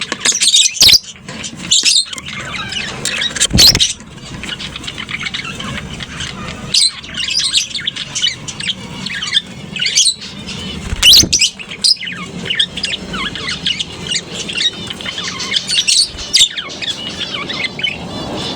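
A colony of lovebirds chirping and chattering continuously in shrill, overlapping calls, with louder sharp shrieks now and then.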